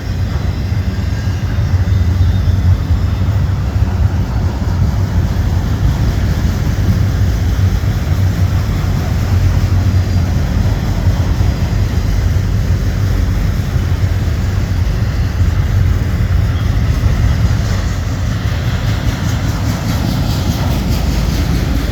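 Long autorack freight train rolling past, a steady low rumble of steel wheels on rail.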